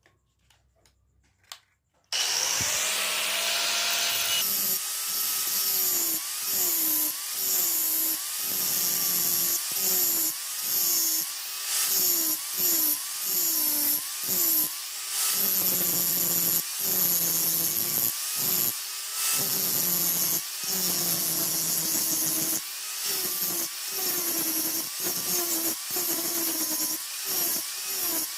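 Electric grinding tool working steel: the motor starts about two seconds in and runs with a whine and a hissing scrape. Its pitch and loudness sag and recover about once a second, in repeated passes.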